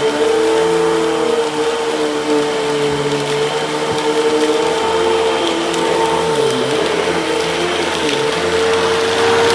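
Hoover vacuum cleaner running: a steady motor whine with lower tones that waver up and down.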